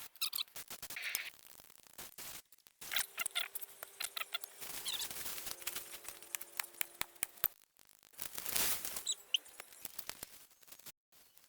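Fast-forwarded sound of tree work: a rapid jumble of clicks, knocks and high chirpy squeaks, broken by several abrupt cuts.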